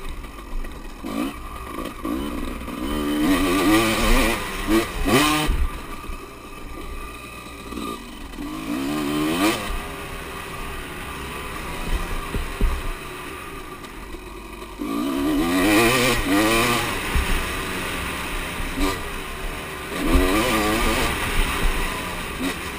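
Motocross bikes running on the track, their engines revving up and down in repeated surges as they pass and shift gears.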